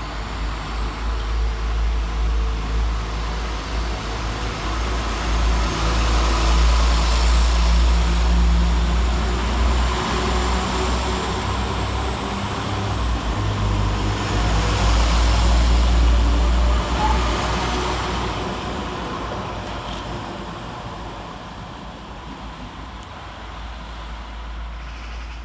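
Two coupled Class 172 Turbostar diesel multiple units running through the station: a continuous low diesel rumble with wheel and rail noise. It grows louder about six seconds in and again around fifteen seconds in, then fades over the last several seconds.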